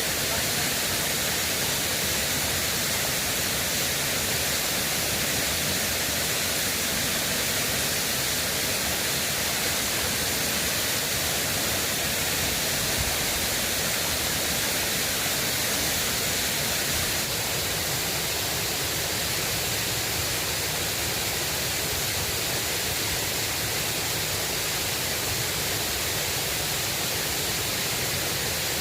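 Flowing river water rushing steadily, an even noise with no distinct events.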